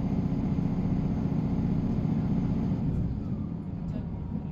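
Diesel multiple-unit train heard from inside the carriage: a steady low engine drone and rumble that eases off about three seconds in.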